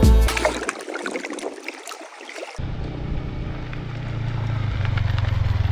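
Background music fading out in the first second. Then a Yamaha R15 V4's single-cylinder engine runs with a steady low rumble that grows gradually louder.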